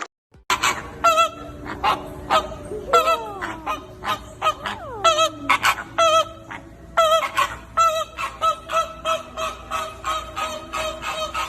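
A flock of birds calling over and over in short, quick calls that overlap, with two longer falling calls in among them about three and five seconds in.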